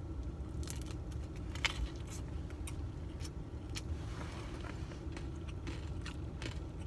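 A man chewing a bite of fried beef sambusa: faint, irregular crunches and mouth clicks from the pastry shell. Under them runs a steady low hum in the car's cabin.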